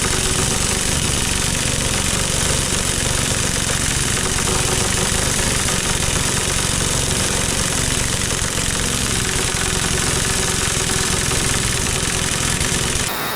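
A machine motor running steadily with a fast, even pulse, stopping near the end.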